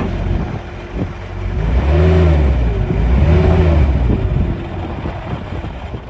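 Bobcat 753 skid steer's diesel engine revved up and let back down twice, then settling back toward idle.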